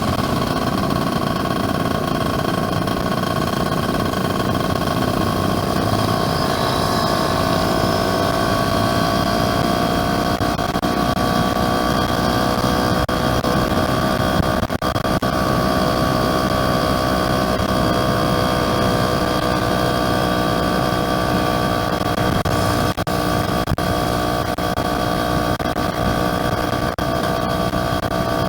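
Yamaha F1ZR's two-stroke single-cylinder engine running steadily while riding. Its pitch climbs slowly a few seconds in, then holds.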